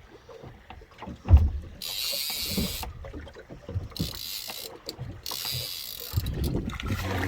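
Choppy water slapping and knocking against a small boat's hull, with one loud knock a little over a second in and three short bursts of hiss.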